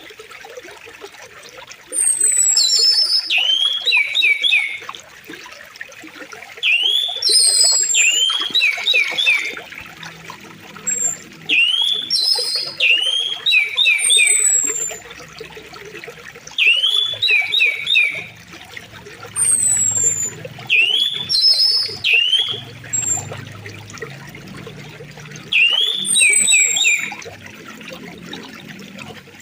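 Steady flow of river water with a songbird singing over it: a short phrase of high whistles and a quick run of rising notes, repeated about six times a few seconds apart.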